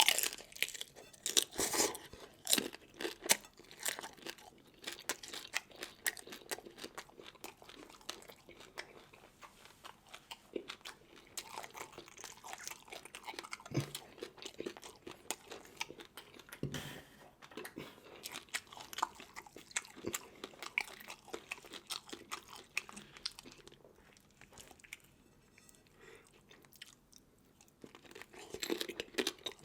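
Close-up eating sounds: a person chewing and biting through seafood, with many irregular crunches and clicks.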